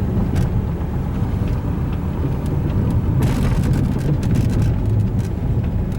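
Fiat Linea driving, heard from inside the cabin: a steady low rumble of engine and tyres on the road, with a few light knocks, most about three seconds in.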